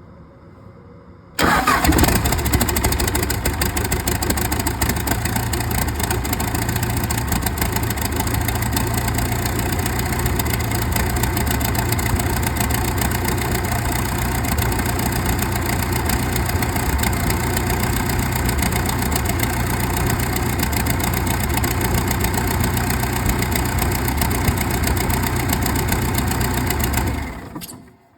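Case 90XT skid steer's turbo diesel engine catching abruptly about a second in and running steadily at idle with no exhaust fitted, on a newly installed turbocharger; it shuts off shortly before the end. The owner judges it sounds all right for having no exhaust on it.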